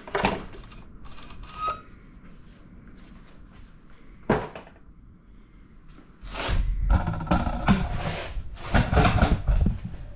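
Parts of a pancake air compressor being handled during disassembly: a few separate sharp knocks, then, from about six seconds in, several seconds of continuous clattering and scraping as the housing and parts are moved about.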